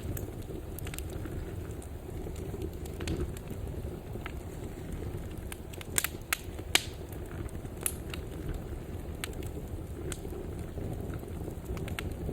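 Fire in a fireplace crackling: a steady low rumble of flames with scattered sharp pops and snaps, a few louder pops about halfway through.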